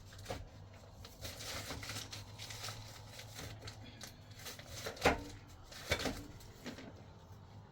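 Light handling noises: rustling and small clicks, with a sharper knock about five seconds in and another about a second later, over a low steady hum.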